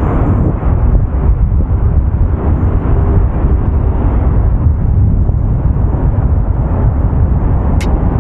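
Steady low rumble of a car driving, road and engine noise picked up by a dash cam, with a sharp click near the end.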